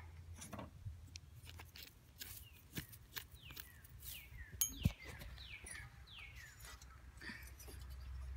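Bird calls: a run of short chirps, each sliding down in pitch, repeated about twice a second, over faint scattered clicks and one sharper knock about five seconds in.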